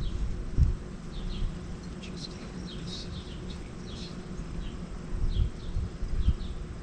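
Small birds chirping outdoors, short falling chirps repeated every half second or so, a little louder around the middle. Irregular low rumbles of wind buffet the microphone.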